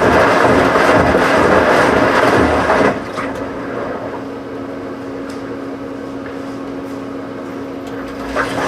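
Washing machine running: a loud rushing, churning noise that drops off abruptly about three seconds in to a quieter steady hum with a low tone and a few light clicks, then rises loud again near the end.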